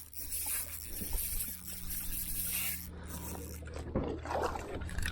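Fishing reel being wound in against a hooked trevally, giving a rasping, scraping sound.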